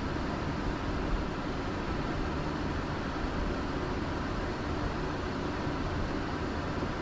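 Steady Boeing 747-400 flight-deck noise on the ground after landing: an even low rumble with airflow hiss and no separate events.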